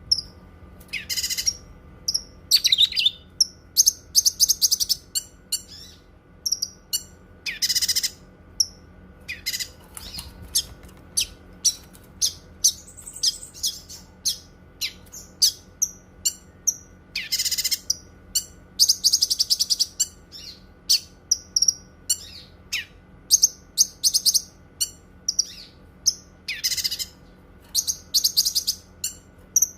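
Cucak kinoi songbird singing: a steady stream of short, high chirps, broken every few seconds by louder buzzy, rattling phrases about a second long.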